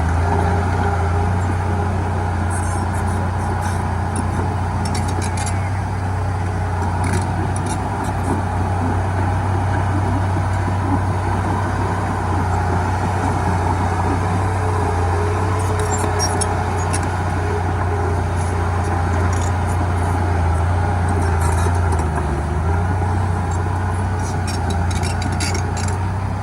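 Heavy diesel engine of earthmoving machinery running steadily at an even pitch, with scattered light clicks and clinks.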